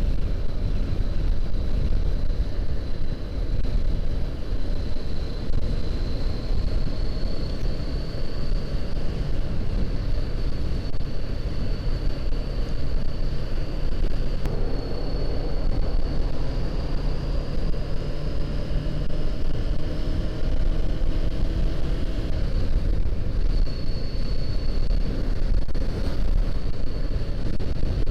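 Honda CBR500R parallel-twin engine running at road speed under heavy wind rumble on the microphone. Its note climbs slowly through the middle and falls back about three-quarters of the way through.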